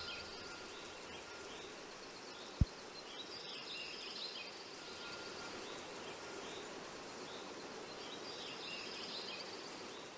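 Faint outdoor ambience with a songbird singing a short chirping phrase that returns a few times. A single short thump about two and a half seconds in.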